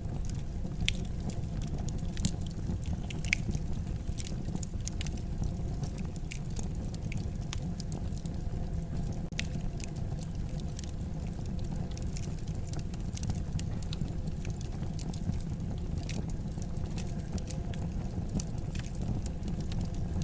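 Fire burning in a fireplace: a steady low rumble of the flames with scattered sharp crackles.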